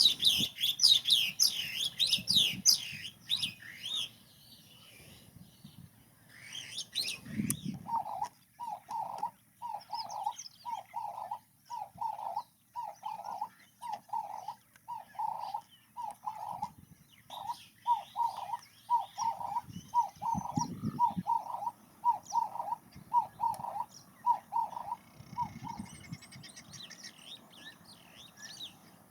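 Several wild birds calling. There is high chirping and twittering, loudest at the start. Through most of the middle one bird repeats a low, even note about one and a half times a second for some eighteen seconds, then stops.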